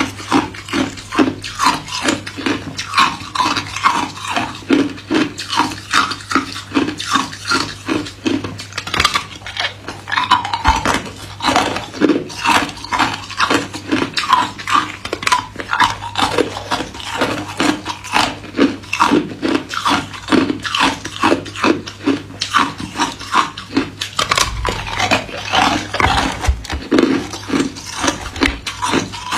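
Hard white ice cubes being crunched between the teeth: a continuous run of sharp crunches, several a second, without pause.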